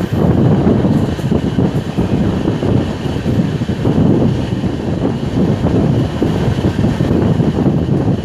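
Passenger train running at speed, heard from aboard: a steady loud rumble and rattle of the coaches, with wind buffeting the microphone.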